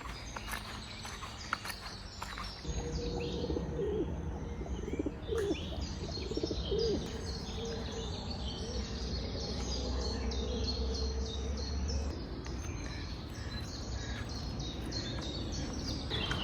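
Wild birds chirping in quick, repeated high notes, with a lower cooing call, over a low steady rumble.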